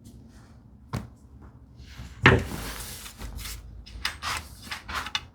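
Wooden knocks of hand tools and workpiece being handled: a sharp knock about a second in, a louder thud about two seconds in, then a run of short scraping sounds.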